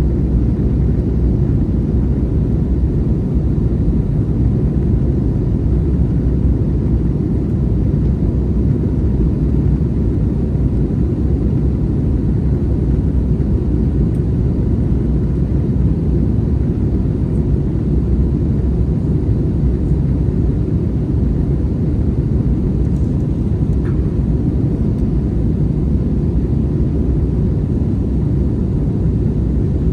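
Steady, even cabin rumble of an Airbus A321neo heard from a window seat: engine and airflow noise, with the most sound in the low range.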